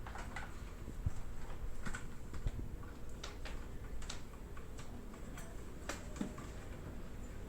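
Irregular light clicks and taps, a few per second, over a steady low hum.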